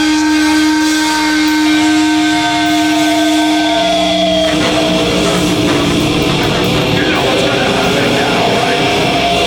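Live heavy metal band playing loud distorted electric guitars: a held, ringing chord for the first few seconds, then about four and a half seconds in the full band drops into a dense, driving riff.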